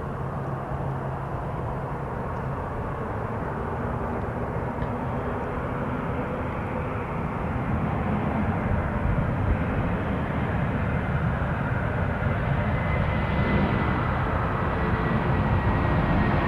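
Airliner engines running, a steady rumble that grows louder through the second half, with a faint high whine that slowly falls in pitch near the end.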